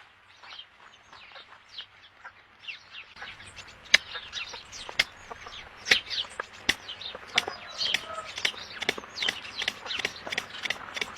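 Birds calling: many short, falling chirps and clucks with sharp clicks among them, sparse at first and then denser and louder from about three seconds in.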